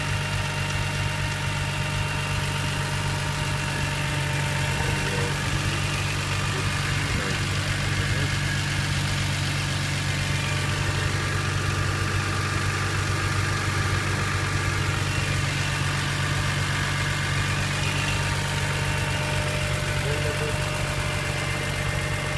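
BMW E46 M3's S54 straight-six idling steadily, the earlier under-hood ticking no longer heard.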